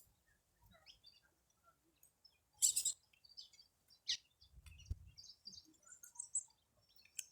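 Small birds chirping faintly and sporadically in short high notes, with one louder short burst of sound about two and a half seconds in.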